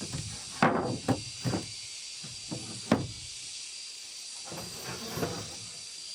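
A few irregular knocks and clatters, the loudest about half a second and three seconds in, over a steady thin high tone.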